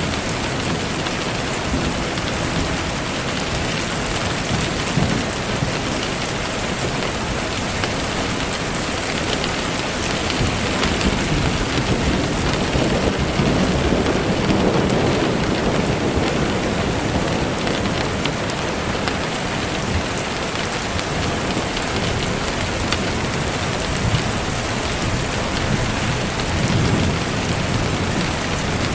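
Steady rain falling, a dense even hiss, with low rumbles swelling up around the middle and again near the end.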